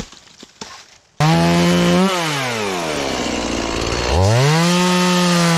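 Stihl MS180 31.8 cc two-stroke chainsaw starting loud at high revs after a few faint knocks, then dropping sharply in pitch for about two seconds as it bogs in a cut through oak, before revving back up and holding high.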